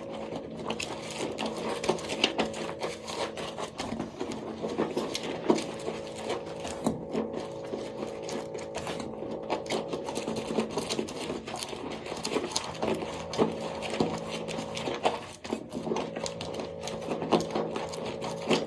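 Dry soap crackling and crunching close to the microphone in a dense, rapid run of small crisp clicks, with a steady low hum underneath.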